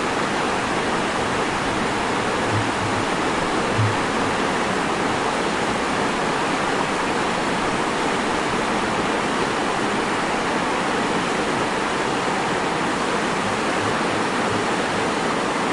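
Steady, even rush of heavy water, like a torrential downpour or fast-flowing floodwater, holding the same level throughout.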